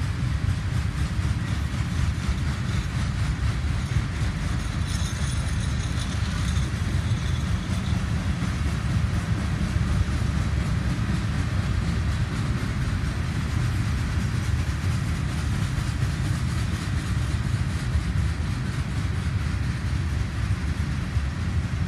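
Herzog ballast hopper cars of a freight train rolling steadily past: a continuous heavy rumble of steel wheels on rail, with a brief high squeal about five seconds in.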